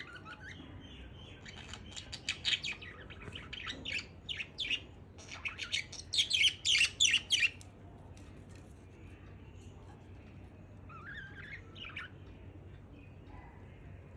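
Budgerigar chirping in a quick run of short, sharp calls, loudest about six to seven seconds in, then falling quiet apart from a few faint calls near twelve seconds.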